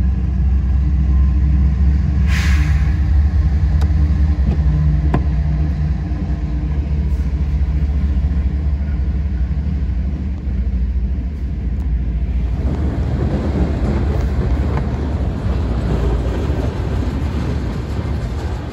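CSX freight train's diesel locomotives, among them EMD SD40-2 units, rumbling past a grade crossing with a steady low engine drone, heard from inside a car. About twelve seconds in, the drone gives way to the rolling noise of freight cars' wheels on the rails.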